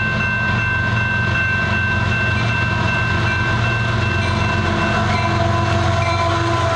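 Train passing with a steady low rumble and several sustained high tones held throughout, another lower tone joining about five seconds in.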